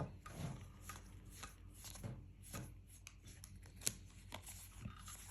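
Trading cards being handled and flipped through: a run of light card snaps and rustles, with one sharper click about four seconds in.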